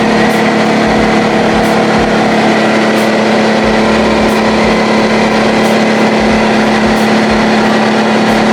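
Electric air compressor, a DeWalt 6-gallon unit, running steadily: a loud, even motor-and-pump hum with a low, regular pulsing underneath.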